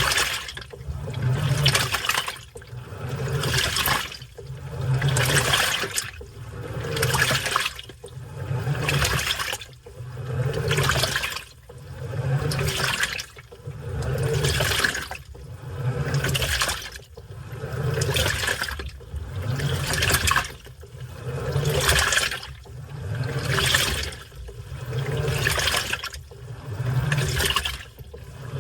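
Washing machine in its wash cycle, water sloshing in regular surges about every second and a half to two seconds, each with a low motor hum, as the drum or agitator swings back and forth.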